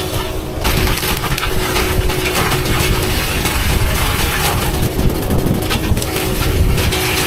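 Forestry machinery cutting through wood: a dense run of cracking and splintering over a steady engine drone.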